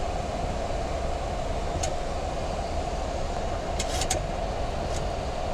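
Steady flight-deck noise of a Boeing 737 MAX 8 in flight, an even wash of airflow and air-conditioning hum with a low rumble underneath. A few faint clicks come about two seconds in and again around four seconds in.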